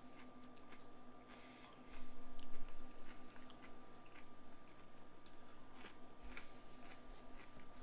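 A person chewing pan-fried perch roe close to the microphone: irregular small wet clicks and smacks from the mouth, with a louder low bump or rustle about two seconds in. A faint steady hum sits underneath.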